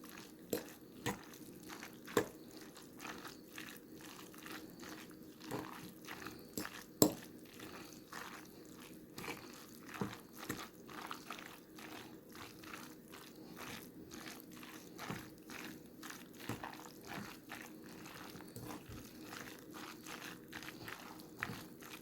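Dressed spaghetti being stirred in a bowl: irregular wet squishing with light clicks of the utensil against the bowl, and a sharper knock about seven seconds in.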